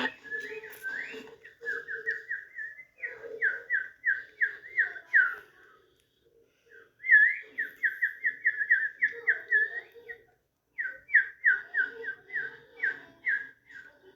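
Whistled notes in quick runs: short, sharp notes on nearly one pitch, about four to five a second, in four bursts with brief pauses between.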